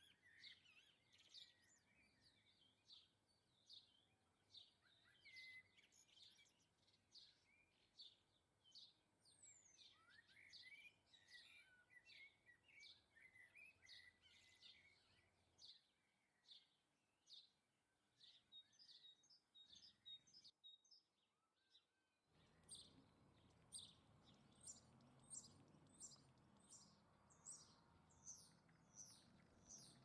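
Faint, rapid chirping of small garden birds: short high chirps, several a second. About two-thirds of the way in the sound drops out for a moment, then the chirping goes on over a louder low background rumble.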